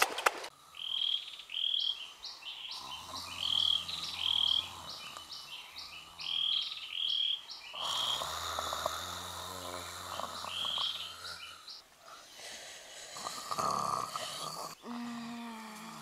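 A bird calling over and over with short high chirps, about two a second, which stop about 11 seconds in. A low, drawn-out human voice sound lies under the calls through the middle.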